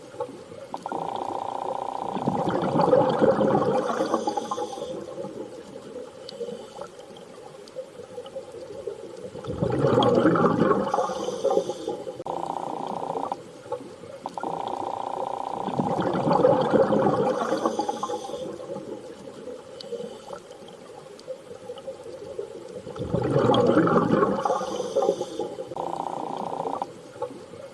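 Underwater-style ambient soundscape: a steady low hum with swells of rushing, water-like noise that rise and fall about every seven seconds, in a repeating loop.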